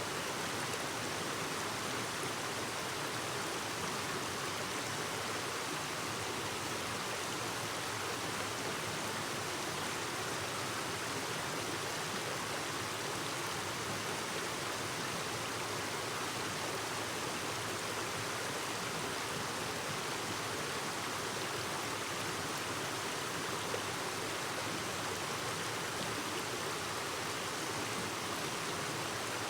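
Clear mountain stream babbling over rocks, a steady rush of flowing water.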